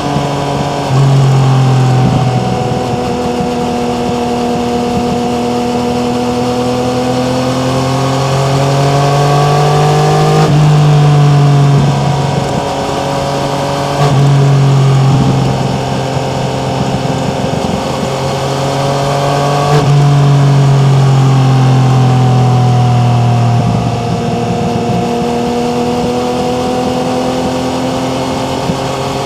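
Yamaha MT-09's three-cylinder engine under way: engine pitch climbs slowly, then steps abruptly several times as gears change and the throttle opens and closes, over steady wind and road noise.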